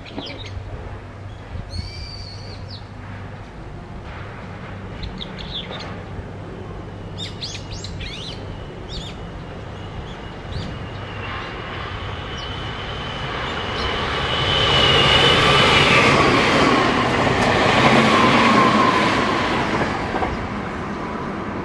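Small birds chirping, then a Meitetsu 3100 series and 3500 series electric train approaching and running past, its rumble building to a peak about two-thirds of the way through with a steady high whine on top, then easing off.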